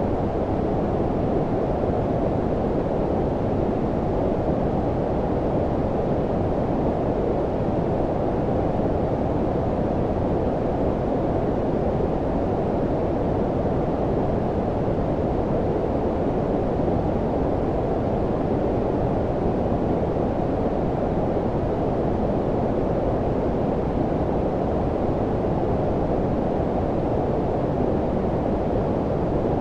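Steady low-frequency white noise, filtered so that most of its sound is deep with little treble: an even, unbroken rushing hiss that does not change.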